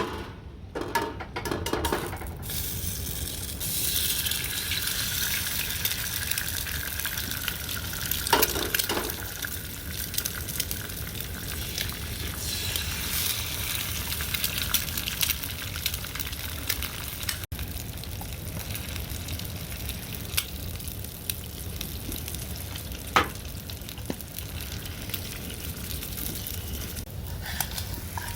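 Food frying in a pan, sizzling steadily, with the sizzle building up a couple of seconds in and a few light clicks of utensil on pan.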